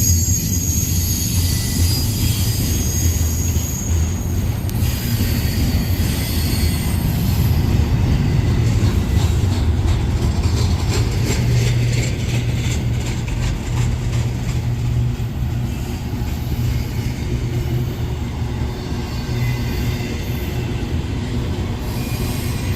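Freight train cars rolling past with a heavy low rumble. High-pitched wheel squeal in the first few seconds, then a run of rhythmic clicks as the wheels pass over rail joints.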